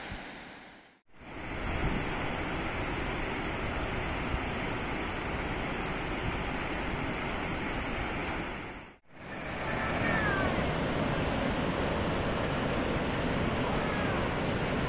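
Steady rush of falling water from a waterfall. The sound drops out briefly twice, about a second in and about nine seconds in. Faint bird chirps come through near the end.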